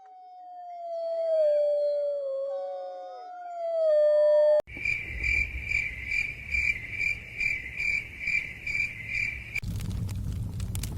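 Several wolves howling together in long, overlapping calls that glide slowly in pitch. About four and a half seconds in they cut off abruptly and crickets chirp steadily, about twice a second, over a low rumble. Near the end this switches suddenly to a fire crackling and popping.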